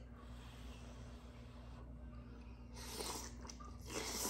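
A person chewing food close to the microphone, with short louder bursts of eating noise about three and four seconds in, over a steady low hum.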